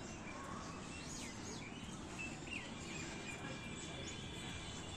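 Open-air background noise, steady and low, with a few short bird chirps scattered through it.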